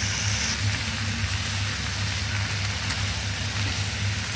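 Sausage, napa cabbage and chili sizzling in a hot nonstick wok as they are stir-fried, over a steady low hum.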